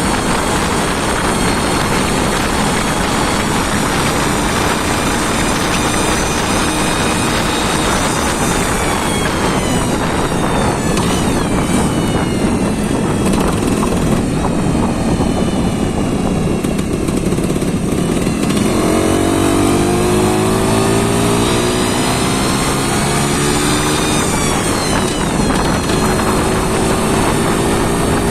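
An engine running loudly on test, its speed changing: the pitch drops about ten seconds in, climbs again as it is revved a few seconds past the middle, and falls back near the end.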